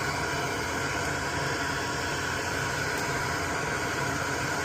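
Steady fan noise: an even hiss with a faint low hum, unchanging throughout.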